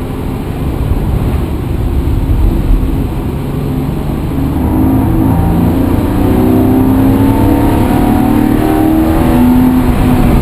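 Dennis vehicle's engine under way, its note climbing as it accelerates from about halfway in, over a steady rushing road noise.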